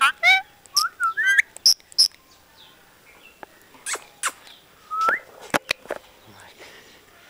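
Pet parrot calling: a quick wavering whistle and short rising whistled notes at first, then scattered sharp high chirps and clicks with pauses between, and one more rising whistle about five seconds in.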